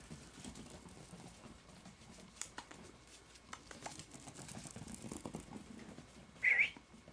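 Small puppies' paws and claws pattering and clicking on a hard floor as the litter runs about, with one brief high squeak about six and a half seconds in.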